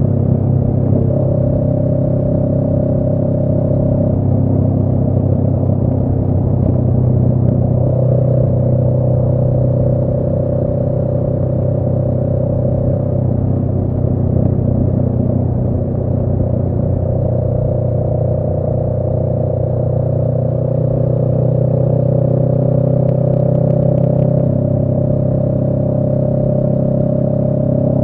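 2018 Honda Rebel 500's 471 cc parallel-twin engine breathing through a Radiant Cycles Shorty GP aftermarket exhaust, running at steady revs while the motorcycle cruises, its note holding nearly constant.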